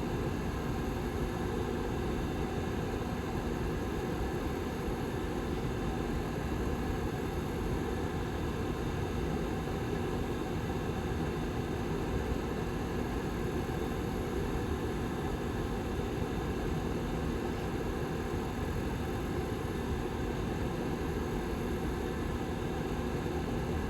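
Rear fan of a Lasko Model 755320 tower heater running steadily: an even whir with a faint low hum under it.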